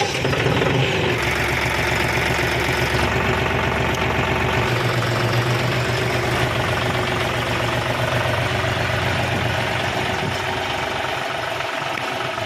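John Deere 5050D tractor's 2.9-litre three-cylinder diesel engine idling steadily.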